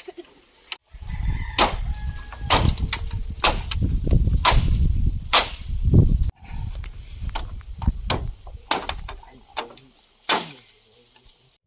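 A series of sharp knocks, roughly one a second, over a low rumble that cuts off suddenly about six seconds in; the knocks go on more thinly afterwards.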